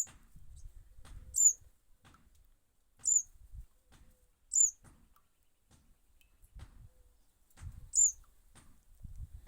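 Young bird repeatedly giving a single sharp, high chirp, five times, about every second and a half with a longer pause before the last. Low rumbling comes and goes between the chirps.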